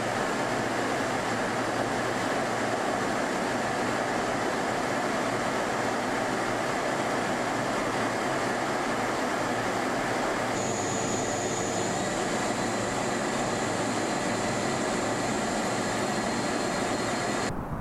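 Turbofan jet engines of a Boeing P-8I aircraft running, a steady rushing noise with a thin high whine. A brighter high whine joins about ten seconds in, and the sound cuts off abruptly near the end.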